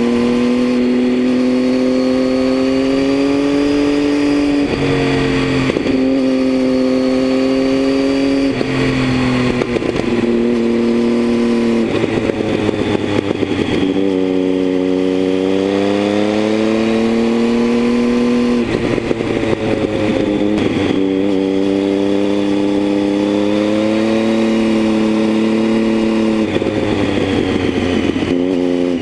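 Triumph Tiger 800's three-cylinder engine running through a Leo Vince aftermarket exhaust while riding through bends: the engine note climbs under throttle, then breaks off and drops several times as the throttle is closed and gears change.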